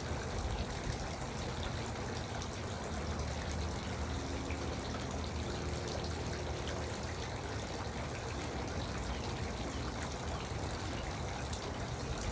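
Garden water fountain trickling and splashing steadily.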